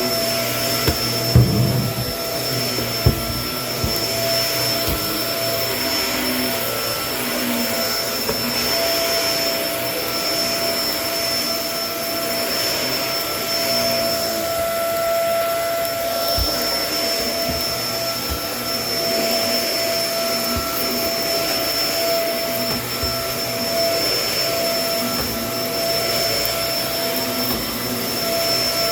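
Kenmore vacuum cleaner running steadily with a constant motor whine over the rush of suction. It knocks sharply a couple of times a second or two in.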